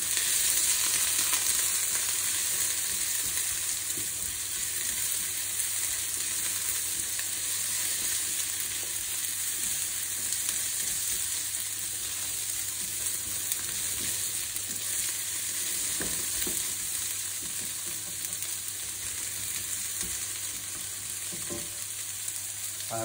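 Onions and mixed vegetables (carrots, peas, beans and corn) sizzling in hot oil and ghee in a frying pan as they are stirred with a silicone spatula. A steady hiss, a little louder in the first couple of seconds, with a few faint scrapes of the spatula later.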